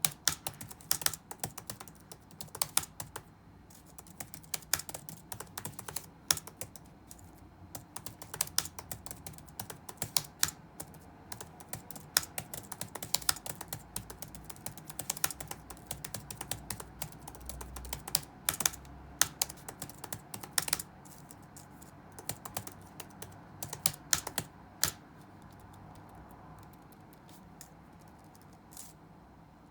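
Computer keyboard being typed on in fast, irregular runs of keystrokes, with short gaps between runs. The typing stops for a few seconds near the end, broken by a single keystroke.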